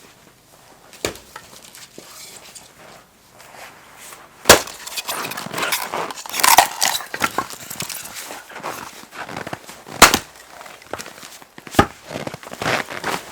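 Firewood being handled: four sharp wooden knocks, the loudest about four and ten seconds in, with clattering and rustling between them.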